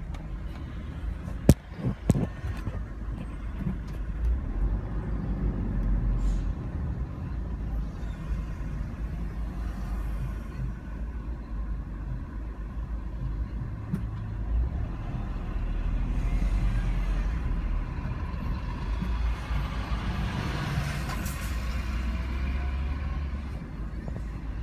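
Road noise from inside a moving vehicle as picked up by a dashcam: a steady low rumble, with two sharp knocks about a second and a half and two seconds in.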